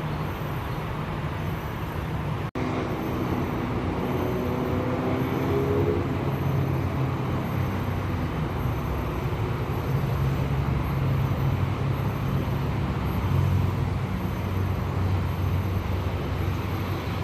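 Road traffic: vehicle engines running and passing over a steady rumble and road hiss, with one engine rising in pitch a few seconds in. The sound drops out for an instant about two and a half seconds in.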